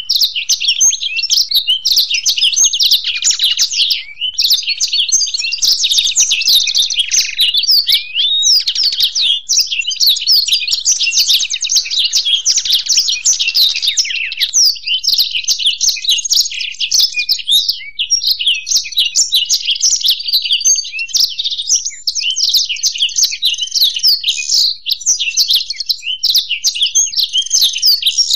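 Black-throated canary and European goldfinch song: a dense, unbroken stream of fast twittering, trills and quick chirps with no pauses.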